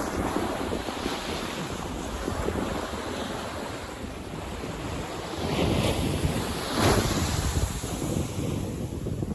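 Sea waves breaking and washing on a beach, with wind buffeting the microphone; a wave surges loudest about two-thirds of the way through.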